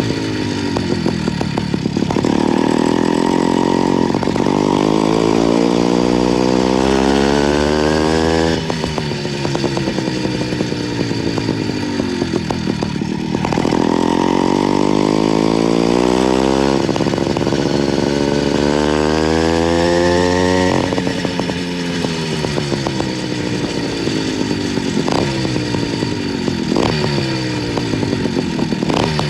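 Small two-stroke motorized-bicycle engine (YD85 kit) pulling a ride, revving up in rising pitch twice and each time dropping suddenly as the throttle is let off, then winding down. Near the end it falls away in shorter rises and drops.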